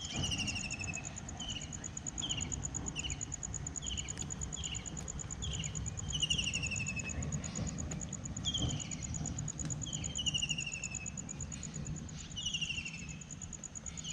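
Night insect chorus: a steady, rapidly pulsing high cricket trill, with short falling chirps from another creature repeating about once a second, over a low rumble.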